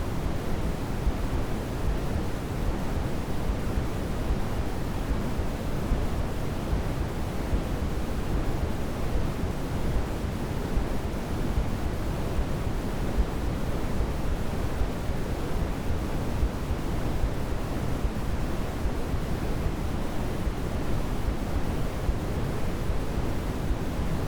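Steady, unchanging generated sleep noise, an even hiss weighted toward the low end rather than bright and flat.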